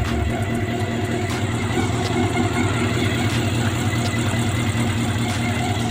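Honda CB400 Super Four's inline-four engine idling steadily, with a faint tick now and then. The mechanic traces the ticking to spark leaking from a high-tension ignition lead on the left side.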